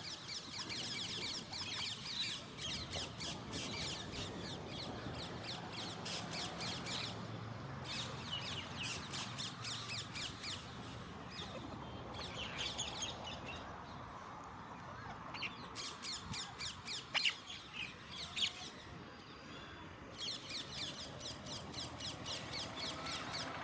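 Alexandrine parakeets calling in fast, chattering runs of about five sharp, high calls a second. The runs come in several bursts with short pauses between them.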